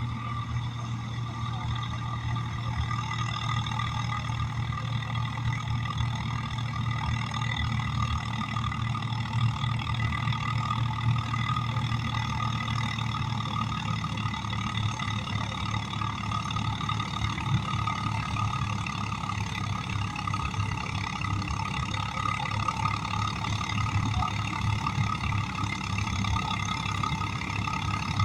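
Tractor's diesel engine running steadily, with an even low pulsing throb.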